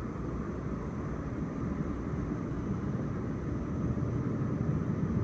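Steady low outdoor rumble that slowly grows louder, with a faint high steady tone above it.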